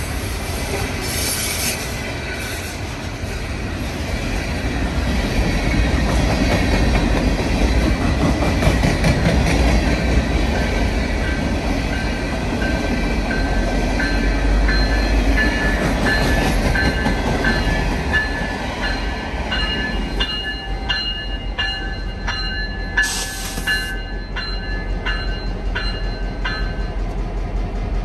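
Open ballast hopper cars rolling slowly past with a heavy low rumble, wheel clatter and high squealing from the wheels. The EMD GP25 diesel locomotive draws up on the next track. Over the last several seconds a metallic ringing repeats at an even beat, one or two strokes a second.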